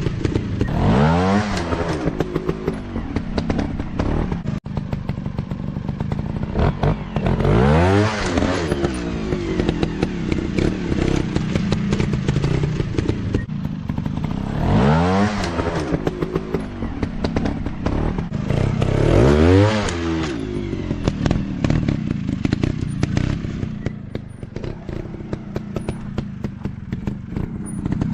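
Off-road dirt bike engines running and revving, rising in pitch and dropping back four times, over a steady engine drone with scattered clicks and clatter throughout.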